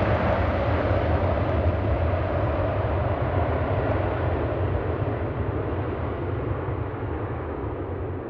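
Jet engines of a Boeing 747 rumbling and roaring, slowly fading as the aircraft moves away, the higher part of the sound dying out first.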